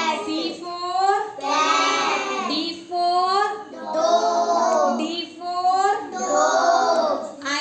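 Pet parrots calling: a run of high, repeated calls, roughly one a second, each arching up and down in pitch.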